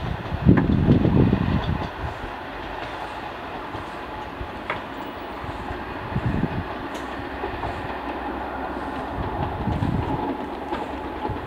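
Diesel passenger train running away over the rails: wheels knocking over rail joints, heaviest in the first two seconds, then a steadier rumble with a few weaker knocks.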